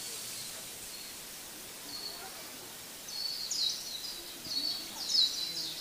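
Small birds chirping outdoors: quick runs of short, high chirps that start about three seconds in, over a steady background hiss.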